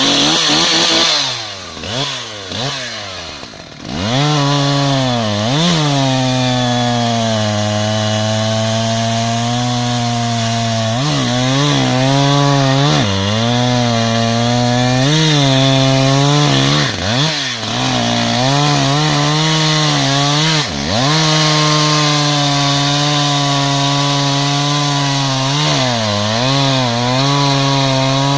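Two-stroke chainsaw held at high revs while sawing into a tree, with a few short revs first. Its engine note dips briefly and recovers several times as the saw is loaded in the cut.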